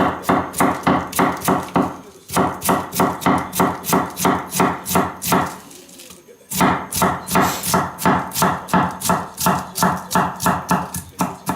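Cabbage being thinly sliced with an N690 stainless-steel kitchen knife. The blade knocks on the cutting board about four to five times a second in three quick runs, with short pauses about two and six seconds in.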